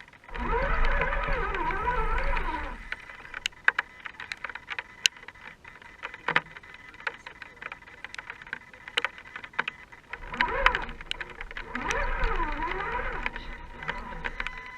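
Radio-controlled rock crawler's electric motor and gears whining, the pitch rising and falling with the throttle in two spells: one near the start and one from about ten seconds in. Scattered sharp clicks and ticks come between the spells.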